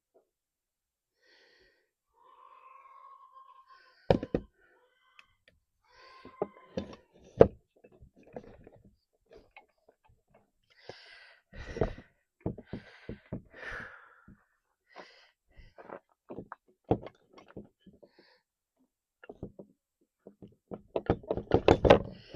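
Scattered knocks and clicks of hand work on outboard motor parts, metal and tools being handled and set down, coming thick and fast near the end.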